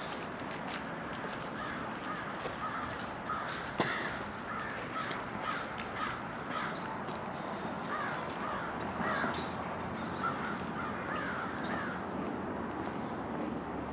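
Birds calling in a run of short, harsh, repeated calls, starting about two seconds in and stopping near the end, over the walker's regular footsteps on a paved path.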